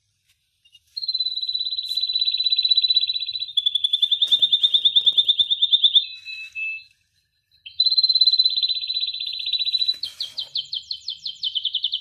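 A songbird singing in long, rapid, high trills, with a break of about a second and a half past the middle; the last trill breaks into quick separate chirps.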